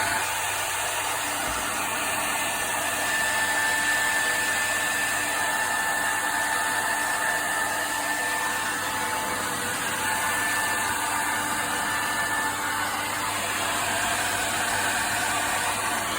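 Hair dryer running steadily: a constant blowing noise with a thin steady whine from its motor.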